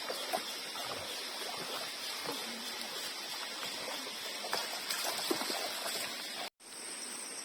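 Steady rushing water noise, cut off abruptly about six and a half seconds in; after the cut a thin high insect-like buzz runs under the water.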